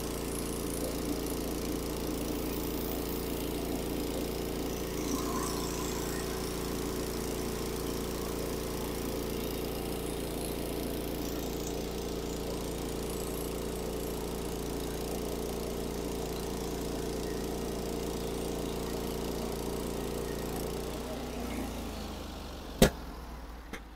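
Gas-engine Norwood HD36 bandsaw mill running steadily as its band blade saws through a white oak log. About 21 seconds in, the engine winds down and falls away. A single sharp click follows about two seconds later.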